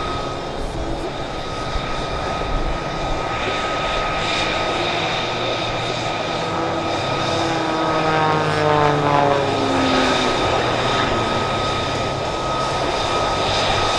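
MXS aerobatic plane's 360-horsepower piston engine and propeller running at air-show power, its pitch falling about eight to ten seconds in as it sweeps past.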